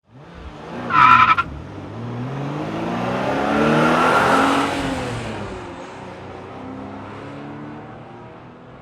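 A car engine revving as the car passes by, building to its loudest about four seconds in and then fading away. A short, high-pitched squeal comes about a second in.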